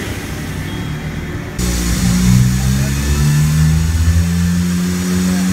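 Turbocharged Toyota Corolla engine running hard on a chassis dyno, its pitch climbing slowly as it pulls. It comes in about a second and a half in, after a different, duller engine sound.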